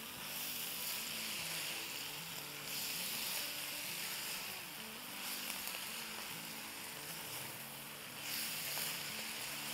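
Shredded cabbage sizzling as it fries in a nonstick electric wok while being stirred with a silicone spatula. It is a soft, steady frying hiss that swells and eases several times.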